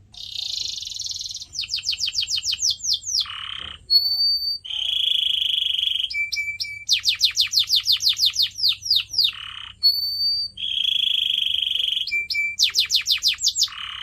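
Domestic canary singing: fast rolls of rapidly repeated falling notes, held buzzy trills and short high whistles, the same sequence of phrases repeated about twice.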